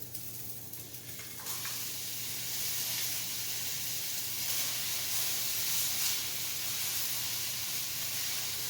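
Frozen chopped cabbage and vegetables sizzling in a hot sauté pan. The sizzle gets louder about a second and a half in and stays steady.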